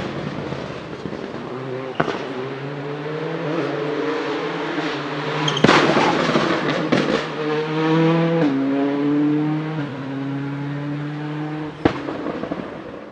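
Skoda Fabia WRC rally car's turbocharged engine pulling hard, its note climbing and then dropping twice at gear changes, with sharp anti-lag backfire bangs about 2, 6, 7 and 12 seconds in. The bang near 6 seconds is the loudest.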